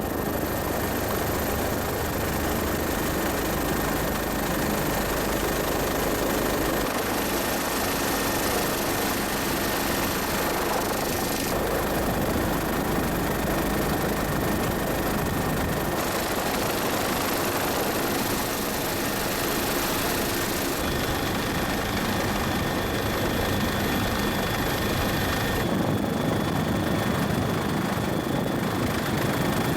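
Steady engine drone with no speech. Its tone and pitch shift abruptly several times, at about 7, 11, 16, 21 and 26 seconds.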